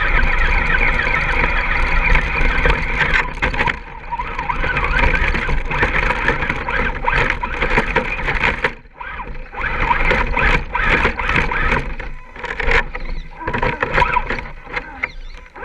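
Axial SCX10 scale RC crawler's electric motor and geared drivetrain whining under throttle, easing off briefly a few times, about nine seconds and twelve seconds in and near the end.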